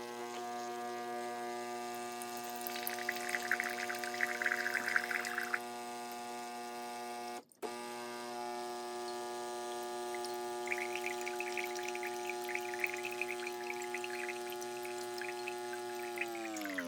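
De'Longhi TrueBrew coffee maker brewing: its pump hums steadily while hot coffee streams and splashes into the cup, once about three seconds in and again from about eleven seconds. The hum drops in pitch right at the end.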